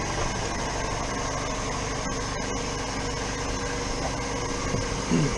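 Steady mechanical hum with a constant low drone and no change in pitch.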